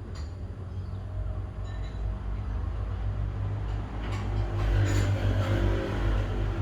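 A motor vehicle approaching and passing close by: a low engine rumble that grows steadily louder and is loudest about five seconds in.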